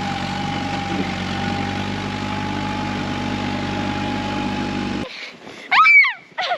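Tractor engine idling steadily with a constant whine over it, cutting off abruptly about five seconds in. Near the end comes a short, loud high-pitched cry that falls in pitch.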